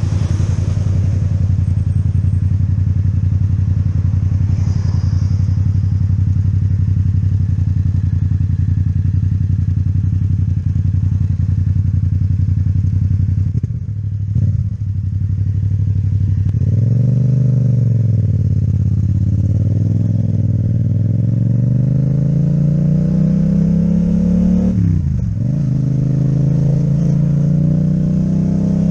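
Yamaha MT-07 parallel-twin engine with an Akrapovic exhaust, heard while riding. It runs at steady revs for the first half, eases off briefly, then the revs rise and fall. After that the pitch climbs steadily for several seconds and drops sharply for a moment about 25 seconds in before holding steady again.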